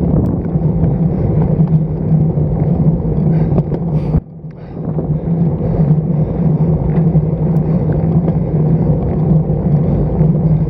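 Wind rushing over an action camera mounted on a road bike's stem while riding, a steady loud rush with a low hum. It drops suddenly about four seconds in, then builds back up within a second.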